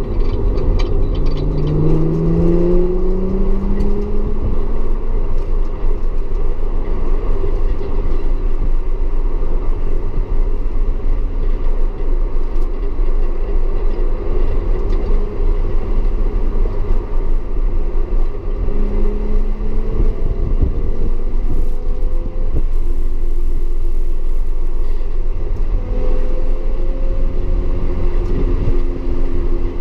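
Audi S4 engine running hard on track under heavy, steady road and wind rumble, its pitch rising as it accelerates a second or two in and shifting again later with gear changes and lifts.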